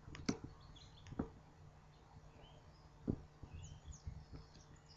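Birds chirping faintly in the background, with three sharp knocks and a low steady hum underneath.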